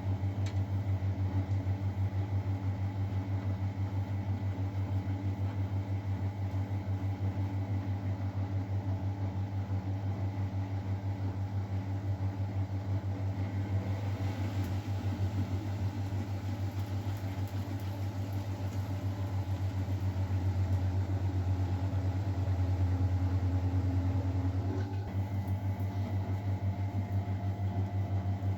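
Miele Novotronic W912 washing machine running with a steady mechanical hum that swells slightly and shifts in tone near the end.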